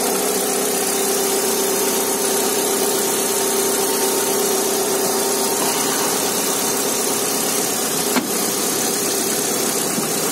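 Vortex car's engine idling steadily and evenly under the open hood, with a single short click about eight seconds in.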